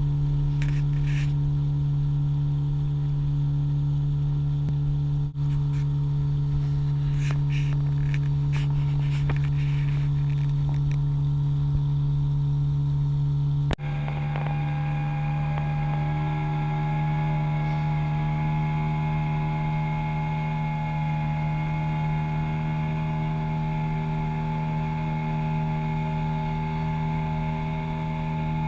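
Boat's outboard motor running at a steady speed, a constant droning hum. It cuts out for an instant twice, about five and fourteen seconds in, and after the second break its pitch sits slightly differently.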